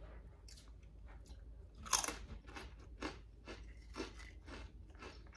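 Close-miked bite into a crunchy chip coated in creamy dip, loudest about two seconds in, followed by steady crunchy chewing.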